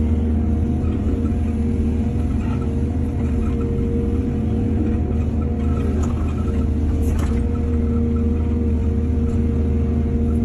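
Heavy diesel engine of an excavator running steadily, with a low hum and a steady whine. There is a brief knock about seven seconds in.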